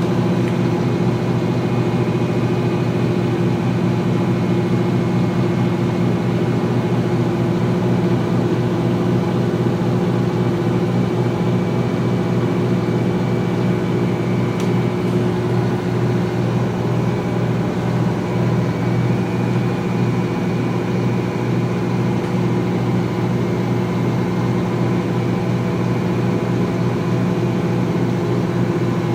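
GE Profile Harmony top-loading washer spinning its drum at a steady speed in the final spin, a constant motor hum and whir.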